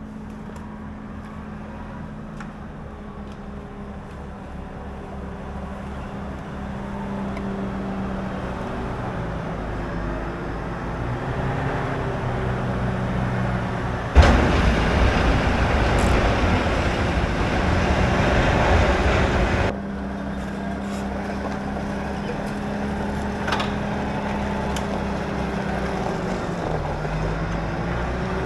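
Adventure motorcycle engine running while riding, its steady hum drifting gently in pitch and dipping near the end. A loud rushing noise covers it for about five seconds midway, starting and stopping suddenly.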